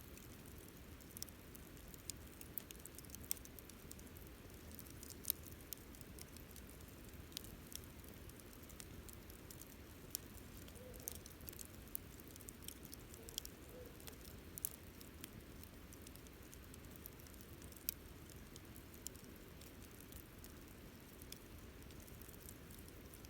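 Wood campfire crackling: irregular sharp pops and snaps over a low steady rush of burning.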